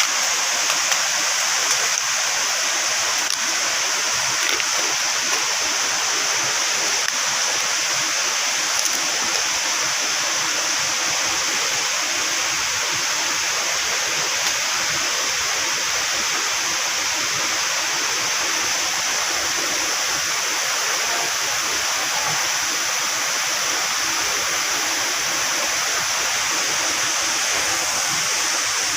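Waterfall rushing steadily, an even, unbroken roar of falling water with a strong high hiss.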